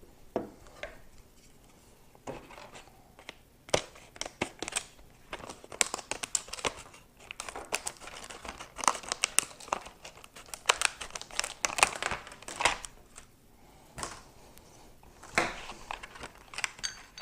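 Packaging being unwrapped by hand, crinkling and tearing in irregular bursts, with scattered small clicks of parts being handled.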